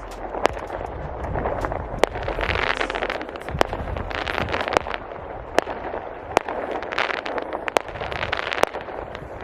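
Fireworks display: sharp bangs of shells bursting about once a second at uneven intervals, with swells of crackling between them.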